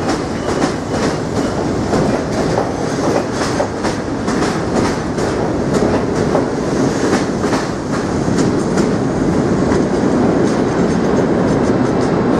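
R32 subway train running on the track, a steady loud rumble with wheels clicking repeatedly over rail joints.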